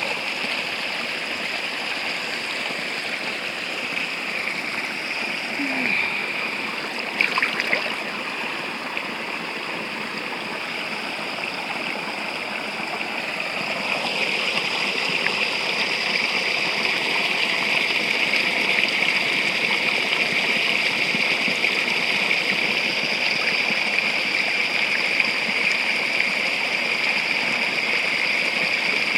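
Spring water running and splashing steadily from the outflow of a forest spring, getting louder about halfway through. A few sharp clicks about seven seconds in.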